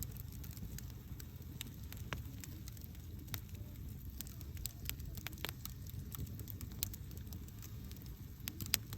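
Campfire burning: a steady low rumble of the flames with irregular sharp crackles and pops, the loudest pop near the end.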